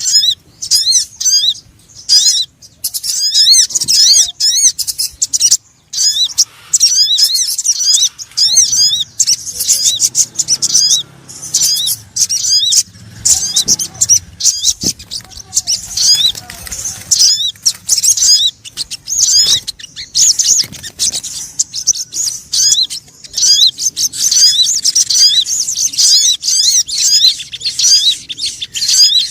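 Bird-luring call of the sogon bird: strings of rapid, sharp, high-pitched chirps, many a second, broken by short gaps.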